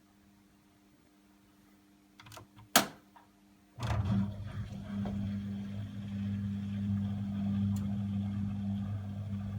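AEG Öko-Lavamat 74780 washing machine starting its cycle: a few clicks, one of them sharp and loud, then a steady hum with a rushing hiss sets in about four seconds in as the water inlet valve opens and the drum fills.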